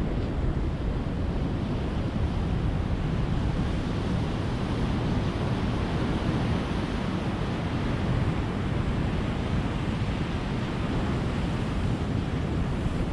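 Ocean surf breaking on a beach: a steady, low rush of waves with no separate crashes standing out.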